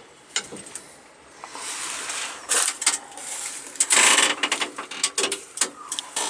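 Rustling with many scattered clicks and light knocks, swelling into two louder rustling spells about two and four seconds in.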